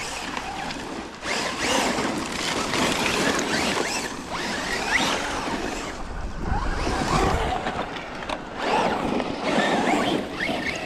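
Radio-controlled truck driving over loose ground: its electric motor whines up and down in pitch with the throttle over a rough, steady noise of tyres on dirt and gravel, dipping briefly about a second in and again around six seconds.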